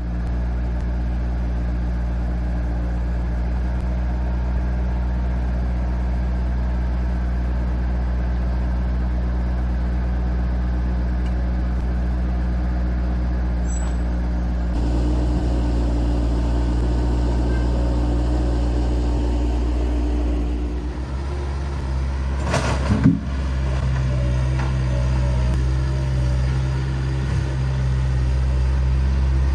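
An engine running steadily, its note shifting about 15 seconds in and again about 21 seconds in, with a sharp clatter about 23 seconds in.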